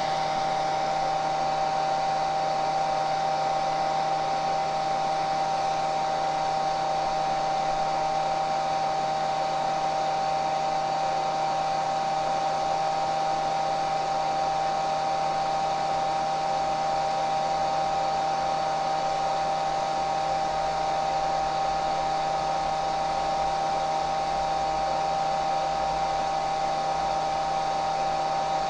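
Hair dryer running steadily: a constant rush of air with a steady motor hum.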